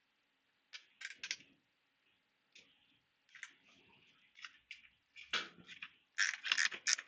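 Scattered light clicks and scrapes of a hex key working a 3 mm hex self-tapping screw out of a plastic mudguard mount, getting busier near the end.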